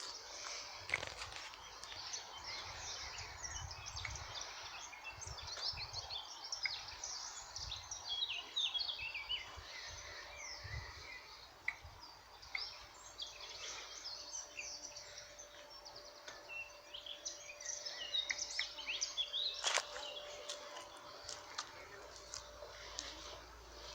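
Wild birds singing, many quick chirps and trills overlapping throughout, with low rumble on the microphone and a faint steady hum joining about ten seconds in. A single sharp click sounds near the end.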